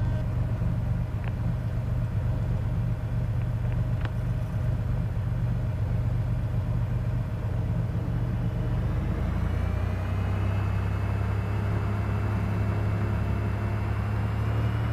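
Cessna 210's six-cylinder piston engine running at low power, heard through the cockpit intercom audio; about two-thirds of the way through its pitch rises a little as the engine speeds up, then holds steady.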